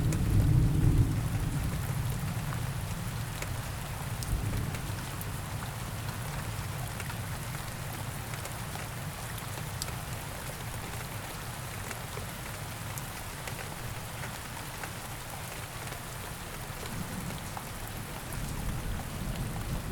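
Steady rain with scattered drop ticks. A low roll of thunder dies away over the first couple of seconds, and another starts to build near the end.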